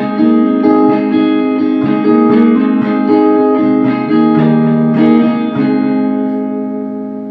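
Guitar playing the closing bars of a song: a run of picked chords over a held low note, then a final chord left ringing and slowly fading out.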